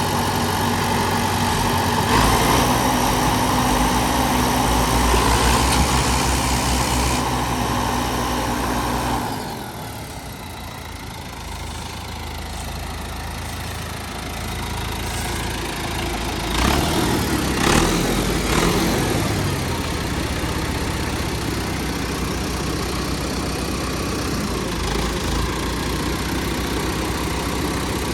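Tractor diesel engines running steadily, with the engine speed rising and falling briefly about two-thirds of the way in.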